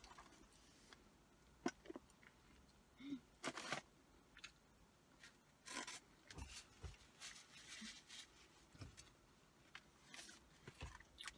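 Faint chewing of a mouthful of cheeseburger: scattered soft mouth clicks and smacks, a few louder ones around the middle.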